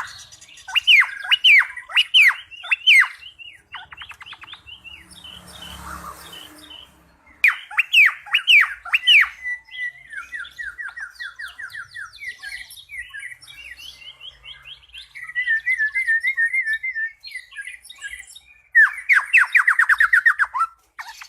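Cucak pantai songbird singing: runs of rapid, loud downslurred whistles alternating with quicker, softer warbling trills. A brief rustling noise comes about six seconds in.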